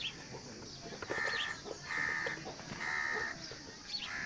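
A crow cawing, four calls about a second apart.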